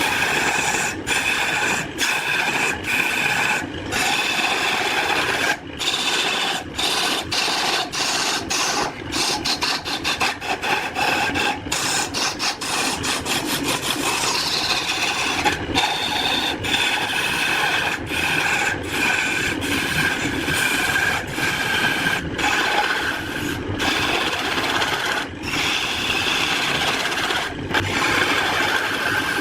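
A power tool working wood: a steady motor whine under a continuous rough scraping and rasping, broken by many brief dropouts.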